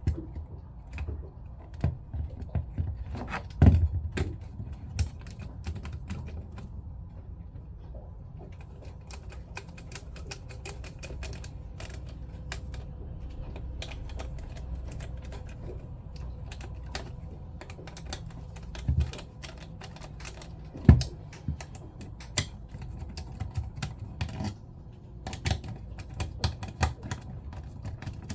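Irregular light clicks and taps of small pump parts and tools being handled during reassembly of a Jabsco diaphragm pump, with a few louder knocks, over a steady low hum.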